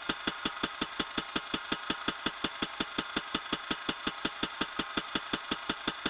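Electronic percussion from a synth and drum-machine rig: a fast, even pulse of short bright ticks, about six a second, steady throughout.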